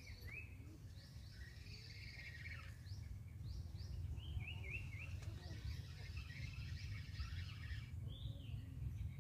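Wild birds chirping and singing in short repeated notes, including three quick rising chirps about halfway through, over a low steady rumble.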